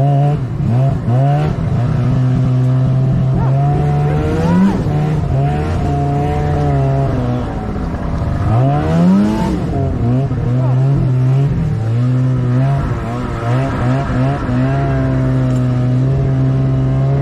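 Snowmobile engine running under changing throttle, its pitch climbing and dropping again and again, with sharp rises about four and nine seconds in.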